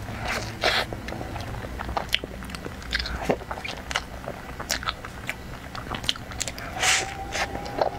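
Close-miked biting and chewing of a soft black sesame pastry with a cream filling: irregular wet mouth clicks and smacks.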